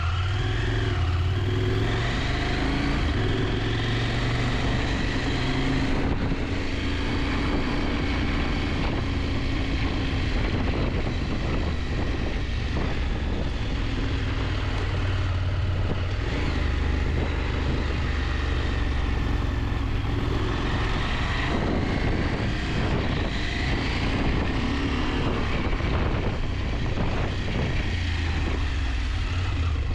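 KTM 890 Adventure's parallel-twin engine running under way, its pitch rising and falling with the throttle, over steady low rumble of riding noise.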